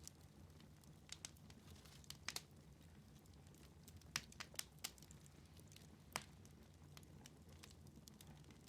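Wood fire in a fireplace crackling faintly: scattered sharp pops, some in quick clusters, over a faint low hum.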